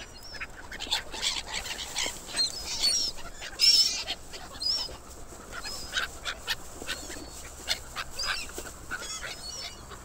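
A flock of birds calling: many short, squeaky calls overlap throughout, with scattered clicks, and the loudest call comes a little before the middle.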